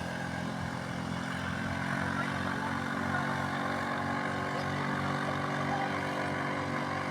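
A small motor running steadily at an even pitch, getting slightly louder about two seconds in.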